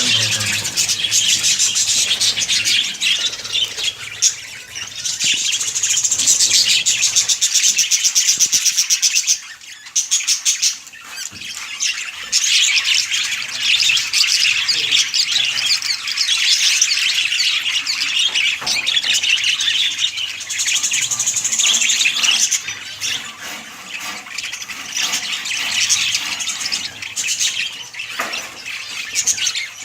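A flock of budgerigars chattering and warbling continuously in fast, high-pitched twitters, with a brief lull about ten seconds in.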